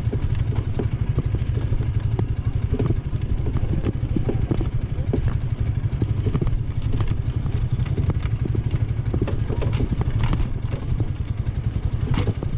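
AKT GP 180 motorcycle engine running steadily, with scattered clicks and rattles over it.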